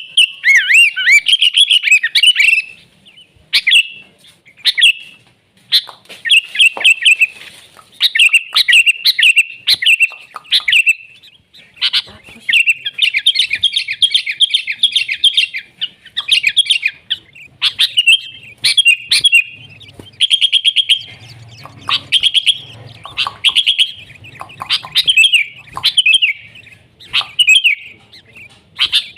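Sooty-headed bulbul (kutilang) singing persistently in loud bursts of quick, bubbling chattering phrases, each lasting a second or two with short gaps between them.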